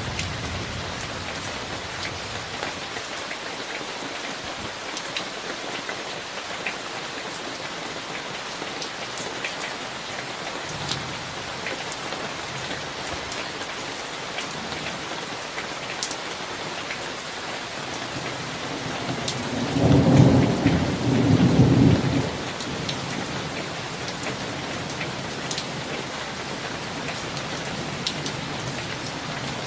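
Steady summer rain hissing down, with scattered drop ticks, and a loud rumble of thunder about twenty seconds in that swells twice over some three seconds before fading back into the rain.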